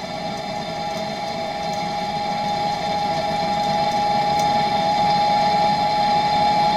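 Gas blowtorch burning steadily as it heats a copper pipe fitting for soldering: a constant hiss with one steady tone over it, growing gradually louder.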